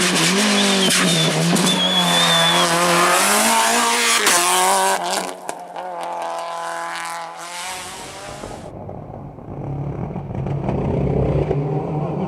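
Rally car engine at high revs, rising and dipping through gear changes as it passes close, with a short tyre squeal in the first couple of seconds; it then fades away. Near the end another rally car's engine grows louder as it approaches.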